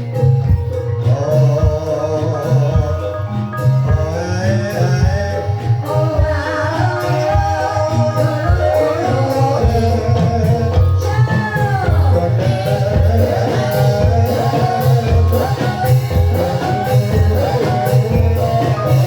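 Banyumas ebeg accompaniment music: mallet percussion and steady drum strokes with a wavering, ornamented vocal line that comes in about a second in.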